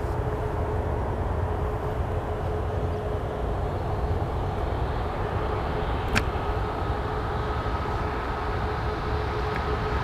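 Steady airport ambience: a rumble and hum from distant jet aircraft engines, with a steady tone throughout and a higher whine joining about six seconds in. A single sharp click about six seconds in.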